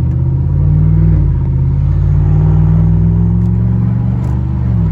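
Cadillac Escalade V8 with the muffler deleted, a deep exhaust rumble under acceleration. The pitch climbs slowly and then drops near the end as the throttle eases or the transmission shifts.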